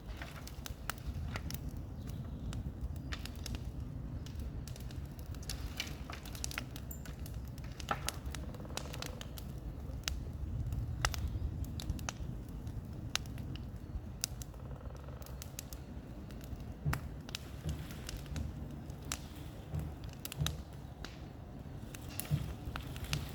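Bonfire crackling and popping: irregular sharp snaps over a low steady rumble.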